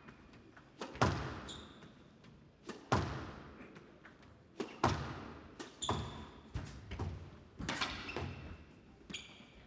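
Squash rally: the ball cracks off rackets and the walls about once or twice a second, each hit ringing on in the hall, with brief high squeaks of court shoes between shots.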